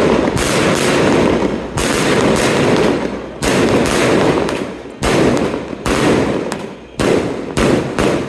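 Strings of firecrackers going off in loud, dense crackling rushes, a fresh burst cutting in sharply every second or so; they fade away just after the end.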